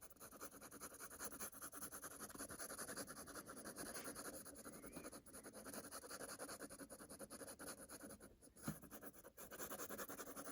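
Micron fine-tip pen scratching on paper in rapid, repeated short strokes, filling in an area of the drawing, with a short break about eight seconds in.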